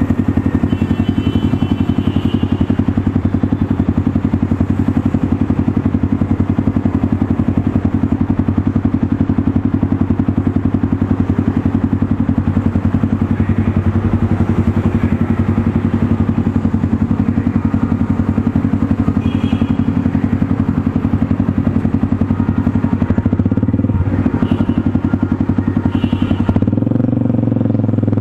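Motorstar Cafe 400 single-cylinder engine running through an SC Project slip-on exhaust on stock headers, a steady exhaust note whose pitch shifts near the end.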